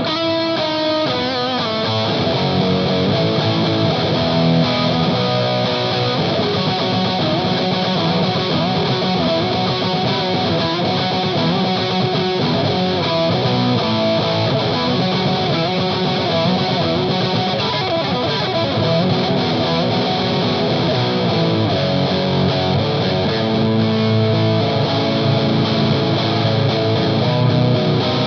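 Electric guitar played through an EarthQuaker Devices Palisades overdrive pedal: a continuous passage of driven single notes and strummed chords.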